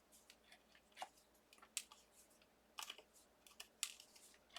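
Faint, scattered light clicks and taps of small card-stock die-cut pieces being worked free of a steel-rule die, about five separate ticks.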